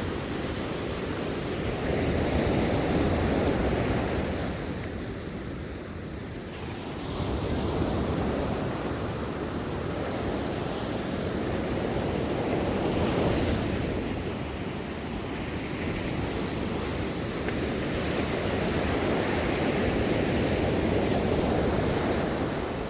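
Ocean waves breaking on a shore, a continuous wash of surf that swells and ebbs every few seconds as each wave comes in.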